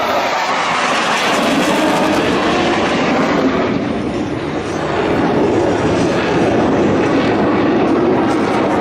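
Large military transport jet's engines running loud and steady in a steep maximum-angle climb: a broad jet roar that dips slightly about halfway through, then swells again.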